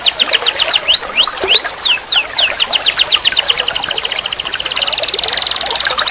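Domestic canary singing: fast trills of quickly repeated high down-sweeping notes. About a second in come a few rising whistled notes and slower down-slurs, then the trill resumes and turns into a very fast buzzy roll.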